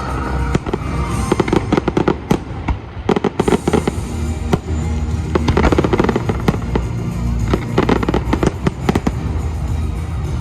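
A fireworks display: volleys of sharp bangs and crackles in dense clusters every couple of seconds, with music playing underneath.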